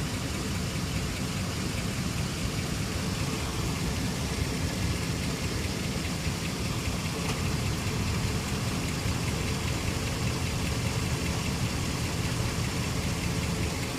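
2006 Jeep Commander's 4.7-litre SOHC V8 idling steadily, fully warmed up. An unidentified noise from under the engine, toward the driver's side, is still faintly audible in it.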